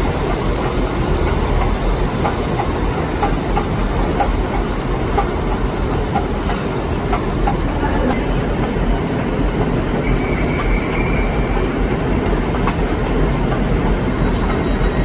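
A train running through the station with a steady rumble and wheels clicking over rail joints. A brief thin high squeal comes about ten seconds in.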